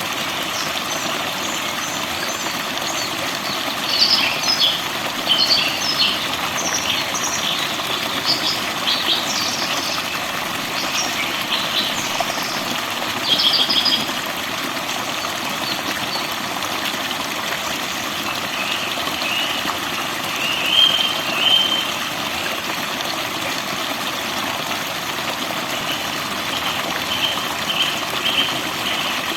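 Forest birds chirping and singing over a steady rush of falling water. A busy spell of short chirps comes a few seconds in, and brief repeated trills come later and near the end.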